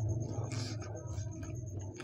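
Steady low hum under faint mouth sounds of someone finishing a mouthful of pani puri, with a short hiss about half a second in.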